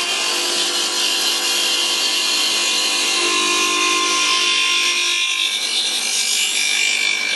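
CNC milling machine with a fly cutter facing off excess material from a part, a steady, noisy cutting sound with a sustained whine, the spindle run slowly for a good surface finish.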